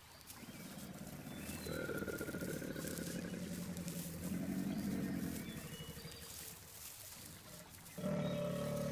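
Low, rough animal growls that swell and fade several times, with a louder growl starting abruptly near the end.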